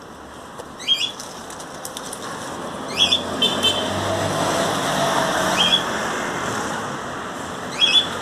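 A road vehicle passing by, its noise swelling and then fading, while a bird gives short, sharp rising chirps about five times.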